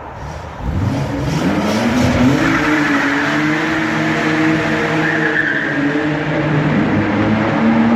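Car engine revved up sharply about half a second in and held at high revs while the tyres spin and squeal, a burnout.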